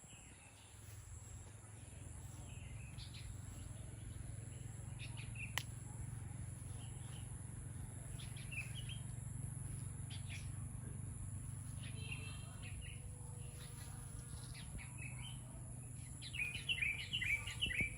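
Songbirds chirping in short, scattered calls, building to a rapid run of chirps near the end, over a steady low hum.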